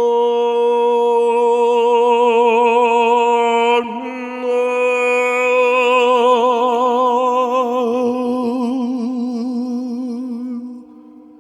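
Sound-healing vocal toning: a voice holds long vowel tones with a slow vibrato over a steady drone. The first tone breaks off about four seconds in, and a second one swells up and fades out near the end.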